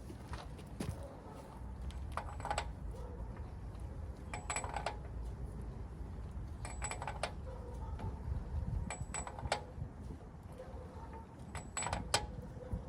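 Short clusters of light metallic clicks from a hand tool, repeating about every two seconds, over a steady low rumble.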